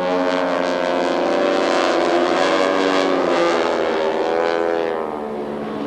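Radial engines of several Stearman biplanes flying in formation, running together as a stack of engine tones that shift slightly in pitch and ease a little near the end.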